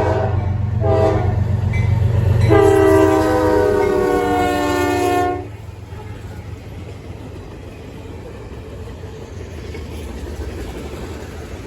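Diesel freight locomotive's air horn: two short blasts, then one long blast of about three seconds, over the low rumble of the engine. After the horn stops, the train runs on with a lower, steady rolling noise.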